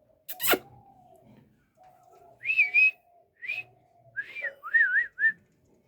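Pet parrot whistling: a run of short warbling whistles, the last few lower and wavering up and down. A sharp click sounds about half a second in.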